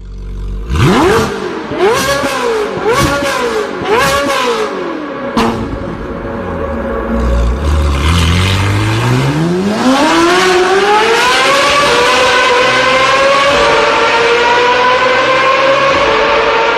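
Ferrari engine revved in four quick blips, then a sharp crack. The revs then climb from low and hold high, creeping slowly higher.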